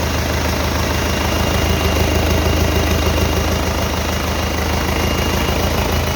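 Freshly overhauled MMZ D-245 four-cylinder turbodiesel running steadily with a fast, even low beat, and a thin steady high whine over it.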